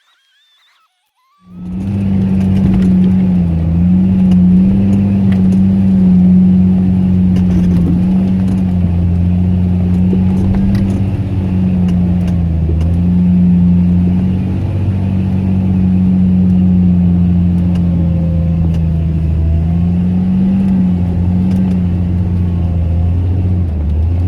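Engine of a four-wheel-drive off-road vehicle working hard up a slippery slope. It cuts in suddenly about a second and a half in and then runs loud and steady, its pitch rising and falling slightly as the throttle changes.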